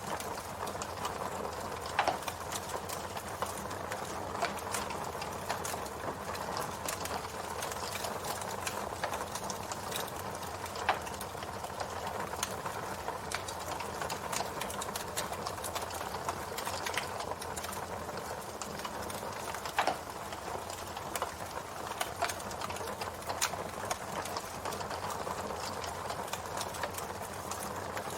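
Campfire of burning wood crackling steadily, with irregular sharp pops throughout and a few louder ones about two, eleven and twenty seconds in.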